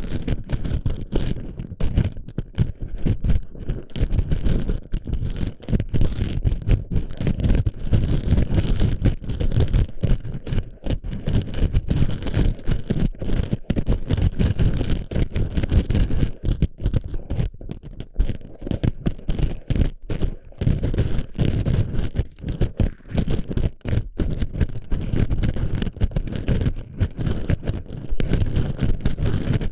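Plastic BB pellets being stuffed and shifted inside a microphone's ear: a dense, irregular crackle over a heavy low rumble, without a break.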